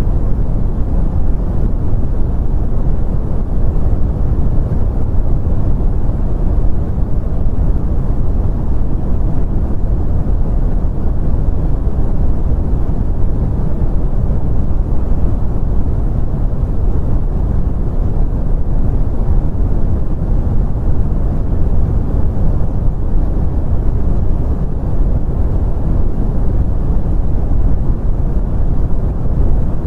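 Steady brown noise: a continuous deep rumbling hiss, strongest in the bass and fading off in the treble, unchanging throughout.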